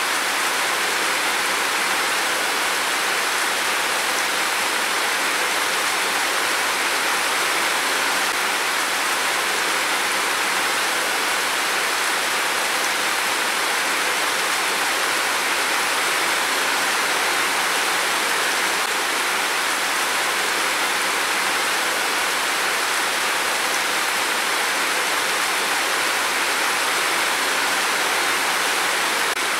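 Heavy downpour of rain, a steady even hiss.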